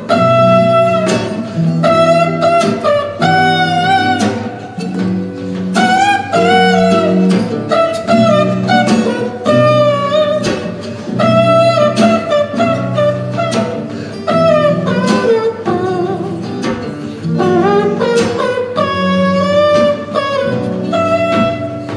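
Instrumental passage of an acoustic song played live: guitar chords with a sustained melodic lead line over them that wavers with vibrato.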